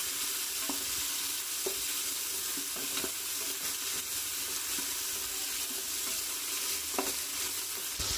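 Onions, chillies and fresh tomato slices sizzling in hot oil in a pressure cooker pot, stirred with a spatula that now and then scrapes and knocks against the pot.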